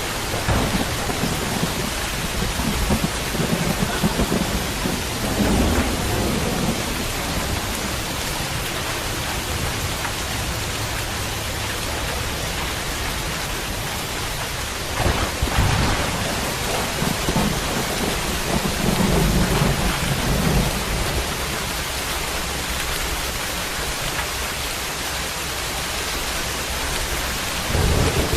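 Steady, heavy rain hissing, with low thunder rumbling up several times: in the first few seconds, around the middle, and again near the end.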